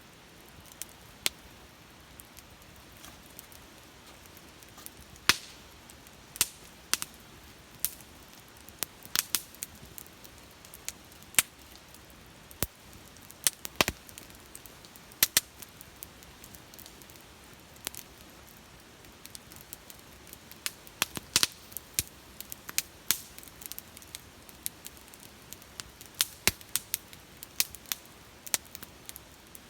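Wood fire crackling: irregular sharp pops and snaps over a faint steady hiss, coming thicker in the second half.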